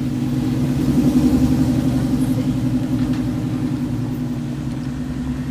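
Cadillac Escalade driving, its engine and road noise heard as a steady low drone from inside the cabin, swelling about a second in and then slowly easing off.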